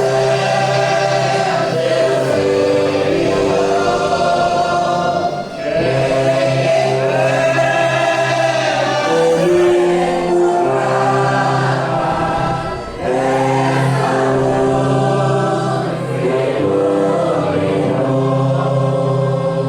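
Congregation and church orchestra performing a hymn: many voices singing held chords in long phrases, with brief breaks between phrases.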